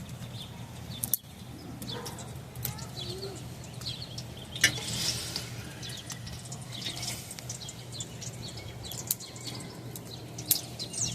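Wood fire in a small barbecue pit crackling and popping with scattered sharp snaps, one louder snap about a second in, as a plastic game controller melts in it.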